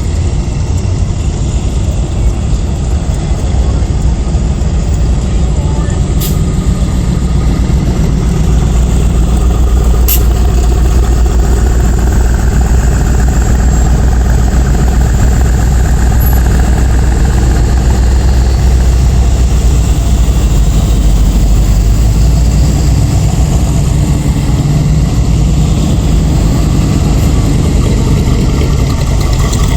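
Engines of hot rods and classic cars idling and creeping past in a slow parade, a steady deep engine sound that grows louder after several seconds, with voices in the background. A sharp click about six seconds in and another about ten seconds in.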